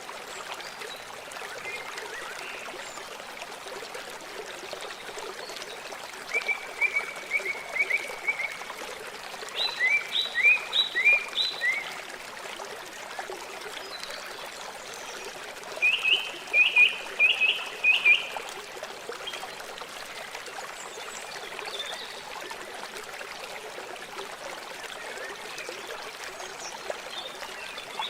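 River water flowing steadily. Three runs of quick, repeated high chirps from an animal break in, about a quarter of the way in, around ten seconds in, and again a little past halfway.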